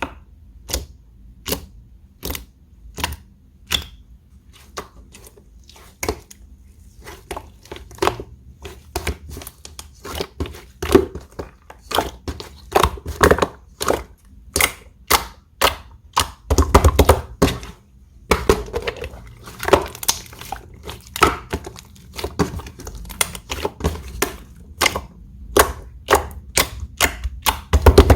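Slime being squeezed and pressed by hand, giving sharp clicks and air-bubble pops about one or two a second. These come faster and louder past the middle, in crowded bursts of popping.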